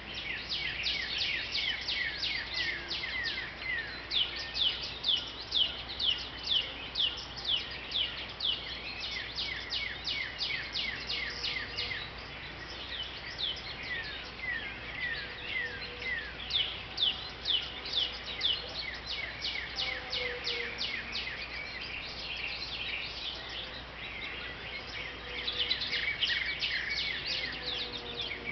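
Small songbirds at a backyard feeder chirping and singing: fast runs of high, downward-slurred chirps, several a second, going on almost without a break and loudest in a few stretches.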